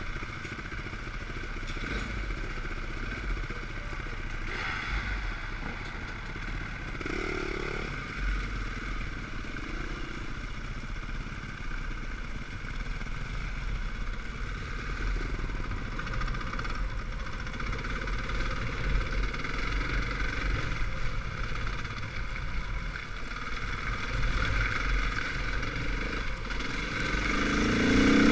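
Off-road trail motorcycle engines running, a steady drone that swells louder near the end.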